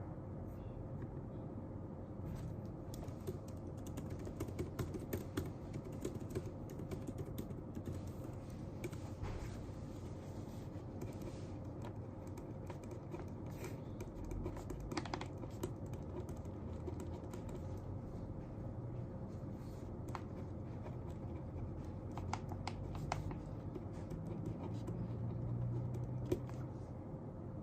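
Irregular clicks and taps of typing on a computer keyboard during study, over a steady low background hum.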